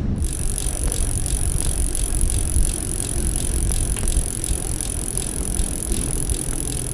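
Bicycle riding on a road: a steady low rumble of wind and road noise with a light rattle, and a faint steady high hiss above it.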